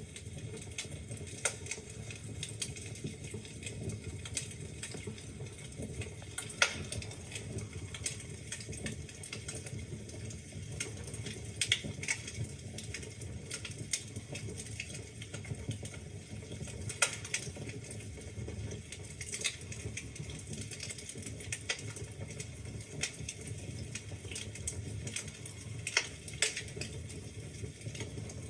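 Wood fire in a fireplace crackling: irregular sharp pops and clicks over a steady low hiss of burning logs, with a few louder snaps.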